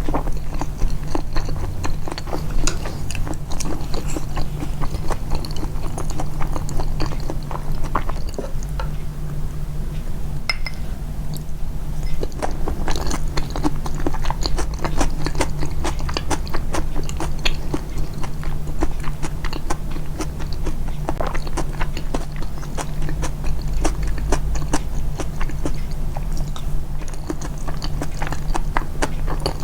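Close-miked chewing, with dense small clicks and wet mouth sounds all through, amplified for eating ASMR.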